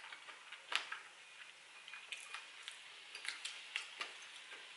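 Quiet close-up eating sounds: chewing with small, irregular mouth clicks, and one sharper click about three-quarters of a second in.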